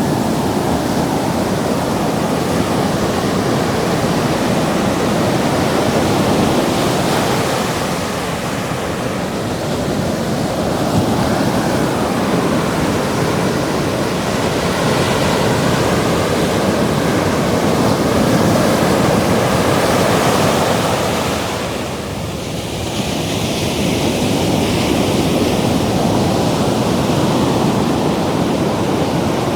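Ocean surf breaking and washing up the beach, a steady roar that swells and ebbs with each wave and dips briefly about two-thirds of the way through.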